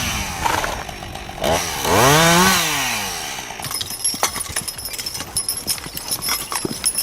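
Chainsaw engine revved up and back down twice, then running quieter and steadier with scattered clicks and ticks.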